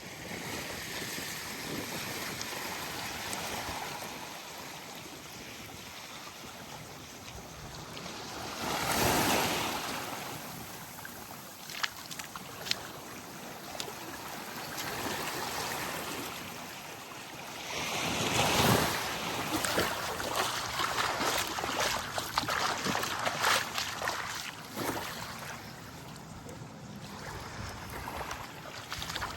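Small waves lapping and breaking on a sandy shore, with two larger waves breaking about nine and eighteen seconds in and the wash crackling after the second.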